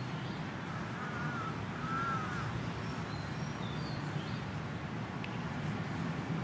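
Birds calling in a park: two arched calls about a second apart, with a few short high chirps from other birds, over steady background noise.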